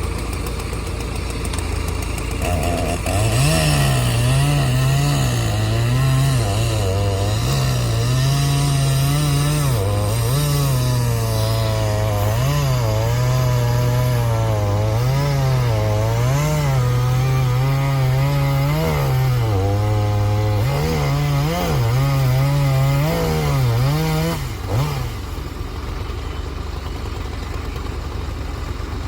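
Old tractor backhoe's engine labouring under load, its pitch rising and falling again and again as the digger works, then dropping back to a steady idle near the end.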